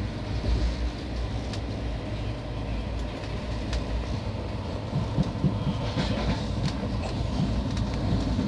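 Train running, heard from aboard: a steady low rumble with occasional sharp clicks and clacks from the wheels and track, coming more often in the second half.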